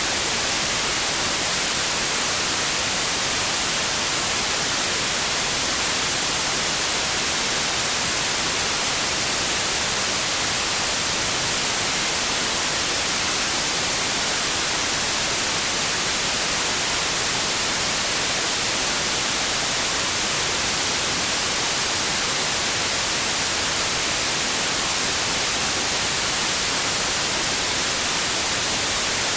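Steady white noise: an even, unchanging hiss with no variation.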